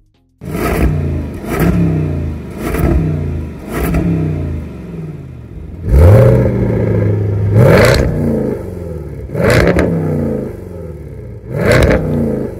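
Land Rover Defender 90 V8 engine free-revving through a Milltek-equipped or stock exhaust in a series of throttle blips. There are quick blips about once a second at first, then several longer, higher revs, each falling back toward idle.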